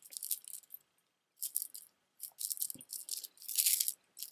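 Beaded jewelry being handled: stone and plastic beads and metal charms clicking and rattling against each other in several short bursts, the loudest near the end.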